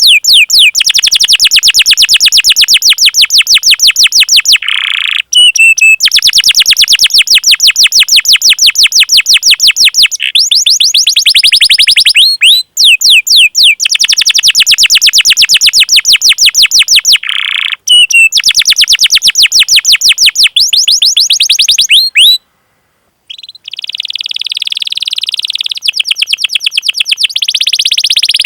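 Canary singing loud runs of rapid, evenly repeated sharp 'cuit-cuit' chirps, about ten a second, in phrases of four to five seconds with short breaks. Near the end it changes to a denser rolling trill.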